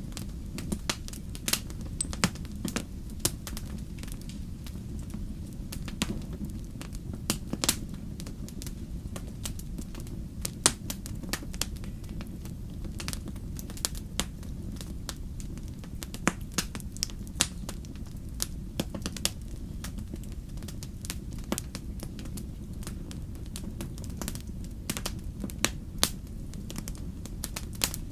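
Wood bonfire burning, with frequent irregular sharp crackles and pops over a steady low rumble.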